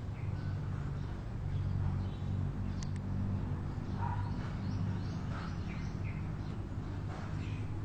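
Birds chirping in short, scattered calls over a steady low drone, with two sharp ticks about three seconds in.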